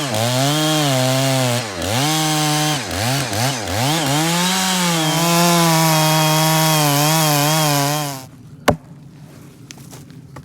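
Two-stroke chainsaw cutting at full throttle, its pitch dipping and recovering several times as the chain bogs in the wood, then cut off about 8 seconds in. A single sharp crack follows shortly after.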